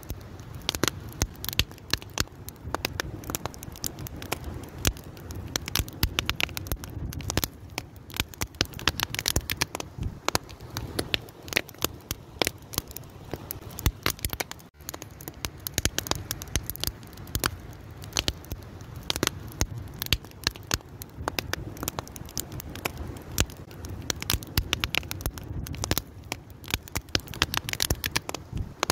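Fire crackling with many irregular sharp pops and snaps over a steady low rumble of burning, with a brief drop-out about halfway through.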